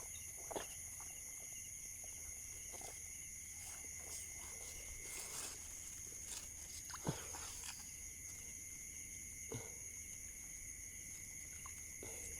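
Steady insect chorus of several high, unbroken buzzing tones, with a few soft clicks and knocks, the sharpest about seven seconds in.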